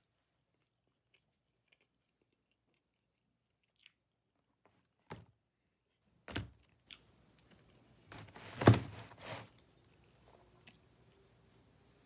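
Eating dry-rub ribs: near silence at first, then from about five seconds in a few sharp smacks and bites and chewing, loudest around eight to nine seconds.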